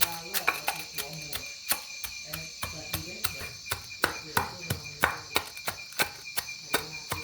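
Insects chirring steadily in a forest, one high continuous buzz with a thinner steady tone beneath it, broken by many irregular sharp taps and clicks. Low voices murmur faintly underneath.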